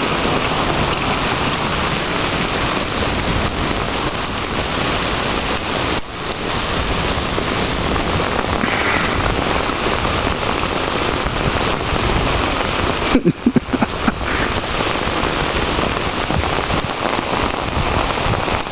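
Steady rain, an even hiss of drops falling on the ground around, with brief lulls about six seconds in and again around thirteen seconds.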